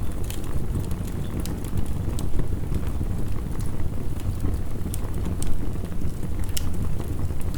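Heavy rain making a steady rush, under the irregular snaps and pops of a crackling wood fire.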